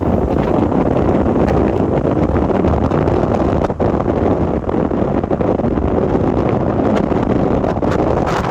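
Loud, steady rushing and rumbling of wind buffeting the microphone.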